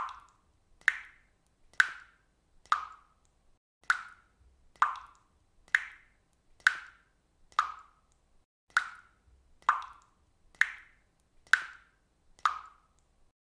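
Water dripping from a faucet at a steady pace of about one drop a second, each drop a short, ringing plop.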